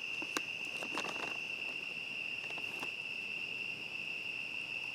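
A steady, high-pitched chorus of crickets, with a few sharp clicks and crackles about half a second in, around a second in, and again near three seconds.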